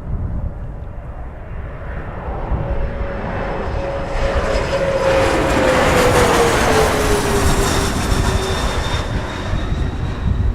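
Bombardier CRJ200ER regional jet's twin turbofans passing close on landing, swelling to a peak about halfway through. Its whine drops in pitch as it goes by. Gusty wind buffets the microphone throughout.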